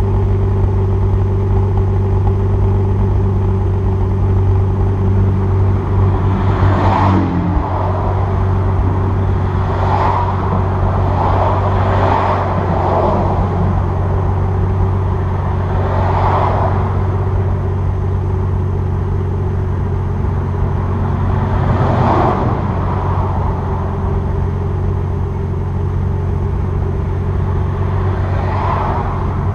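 Exhaust of a 2002 Nissan Maxima's 3.5 L VQ35DE V6, fitted with equal-length headers, stock catalytic converter, muffler and no resonator, idling steadily while it warms up after a cold start. The idle note shifts slightly about seven seconds in, and several brief swells of noise pass over it.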